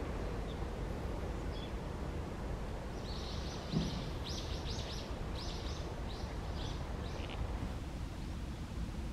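Steady low outdoor background rumble, with a bird twittering in a quick run of chirps from about three seconds in, lasting some four seconds. There is a brief low thump near the start of the twittering.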